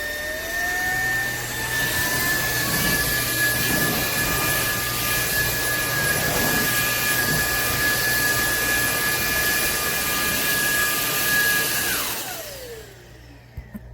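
Cordless stick vacuum's motor running with a steady high whine. In the first couple of seconds its pitch rises as it speeds up. Near the end it is switched off and winds down with a falling whine.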